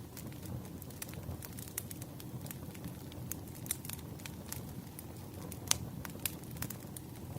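Wood fire crackling: irregular sharp pops and snaps over a steady low rumble, with one louder pop past the middle.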